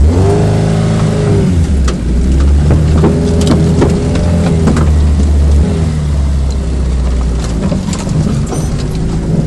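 Lada Niva's engine working under load while driving off-road, its pitch rising and falling with the throttle, with scattered short knocks and clatters.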